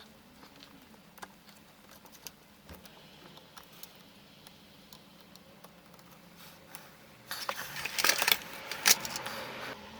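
Small metal parts and tools clicking and clattering by hand as a crank is fitted onto a model locomotive's axle. It starts with scattered light clicks, then rattles louder for a couple of seconds from about seven seconds in.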